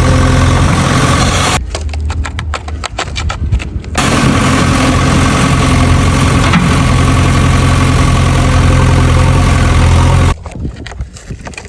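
Engine idling: a steady low hum made of an even stack of tones. It drops away for a couple of seconds about one and a half seconds in, returns, and drops away again near the end.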